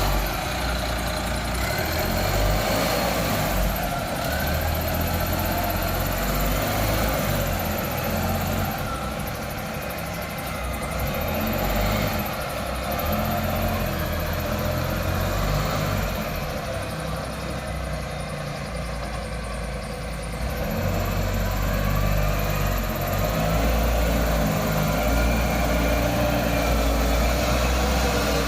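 Engine of a 3.5-ton all-terrain forklift running, its loudness rising and falling as it works, dipping lower for a few seconds past the middle.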